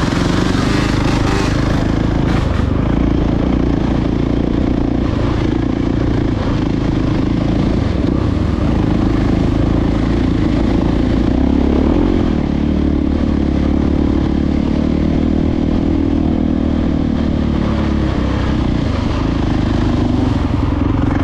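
Dirt bike engine running on a trail ride, its pitch shifting up and down as the throttle is worked, over a low rumble of wind on the microphone.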